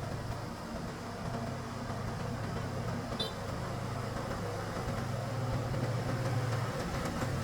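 Engine running steadily at an even low hum, with no revving.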